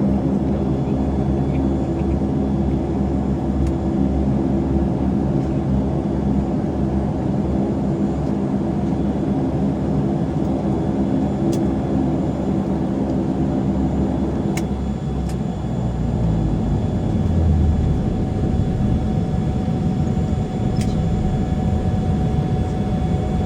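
Saab 340's twin turboprop engines and propellers running with a steady drone. About two-thirds of the way through, the drone's pitch changes: a deeper rumble takes over and a thin steady tone appears. A few light clicks are heard.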